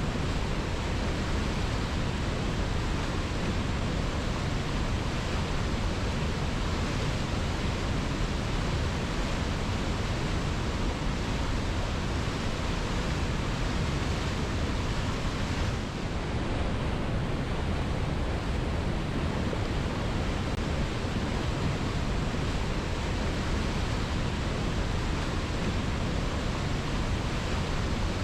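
Waterfall rushing steadily: a dense, even wash of falling water with no let-up.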